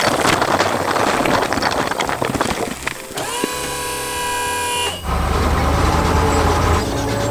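Animated construction-vehicle sound effects: a dense crackling rush for about three seconds, then a vehicle horn sounding for under two seconds, then a heavy engine running steadily.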